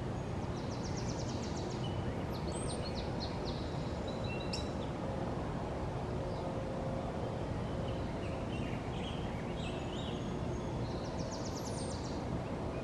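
Birds singing over a steady low rumble: a fast, evenly spaced high trill near the start and again near the end, with scattered chirps in between.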